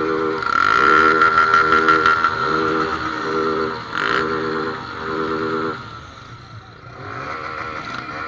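Motorcycle engines revving in repeated bursts, the pitch climbing and falling with each twist of the throttle. They drop back about six seconds in, then pick up again.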